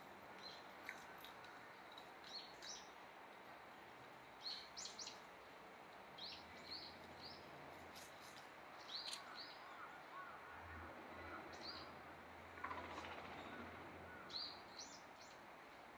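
Small birds chirping in short, high calls every second or two over faint steady background noise, with a brief soft burst of noise about thirteen seconds in.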